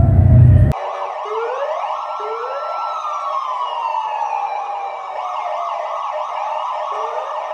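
Police car siren wailing, with several overlapping tones rising and falling in pitch.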